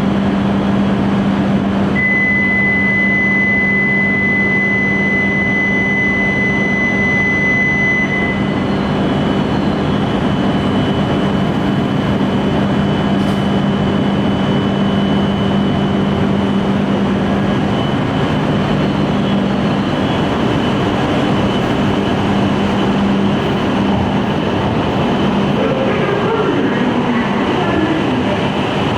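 E5 series Shinkansen train pulling out of the station. Its electric traction equipment gives a steady hum, with a high steady tone for the first several seconds and faint rising tones near the end as it gathers speed.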